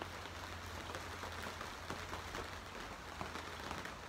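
Steady patter of rain with many small drops ticking, over a low steady hum.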